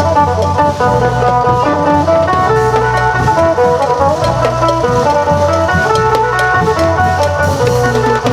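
Isan klong yao ensemble music: an amplified phin plays a running melody over long drums and percussion keeping a steady beat.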